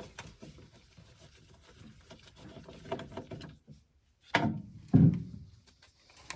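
Small clicks and knocks of tools and furnace parts being handled, with two louder thunks about four and a half and five seconds in.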